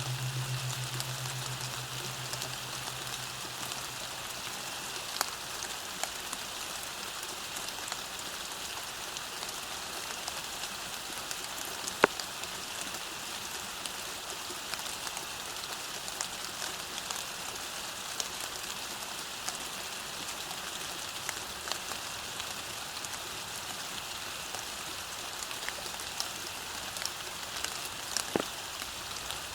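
Steady rain falling, with scattered single drops ticking and one sharper drop about twelve seconds in. A low held music tone fades out in the first couple of seconds.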